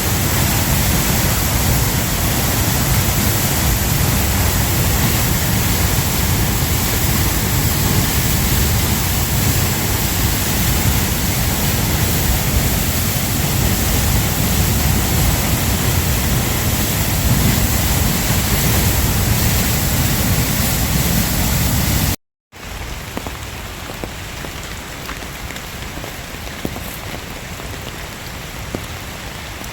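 Loud, steady rush of falling water from a waterfall, mixed with heavy rain. About 22 seconds in it cuts off abruptly and gives way to a quieter patter of rain on surfaces, with scattered drop ticks.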